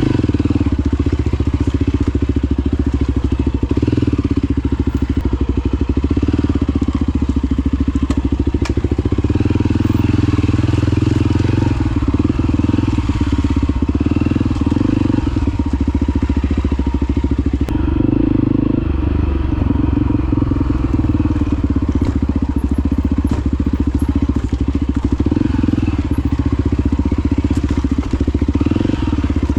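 Honda XR250 Baja trail bike's single-cylinder four-stroke engine running steadily while riding, loud and continuous, with only small changes in engine speed.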